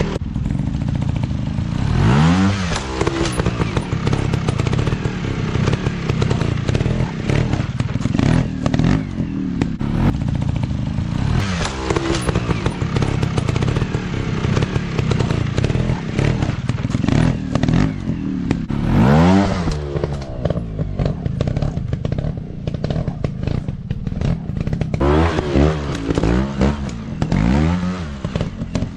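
Off-road dirt bike engines running and revving, the revs rising sharply and falling back several times, with a quick flurry of revs near the end.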